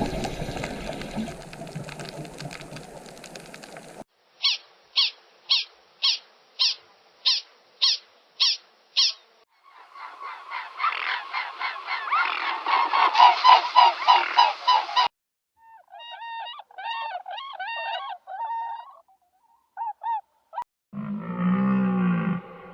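Waterfowl honking: first a run of about nine evenly spaced single honks, then a dense flock chorus of overlapping honks. After that come shorter wavering calls, and a deeper animal call begins near the end.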